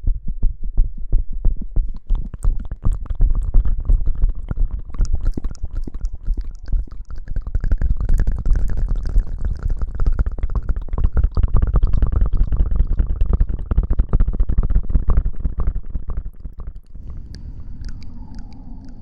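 Close-miked rustling and scrubbing rubbed right against an ASMR microphone, as in mimed hair washing: a dense run of fast crackles over a heavy low rumble. It eases off about three seconds before the end.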